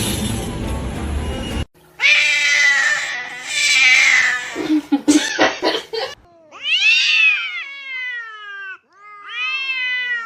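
A cat yowling: long drawn-out meows that rise and then fall in pitch, two clear calls in the second half.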